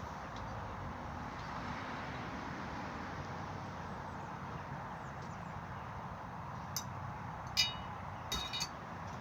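Steady outdoor background noise, with a few short, sharp clicks or clinks near the end; the loudest comes about three-quarters of the way through.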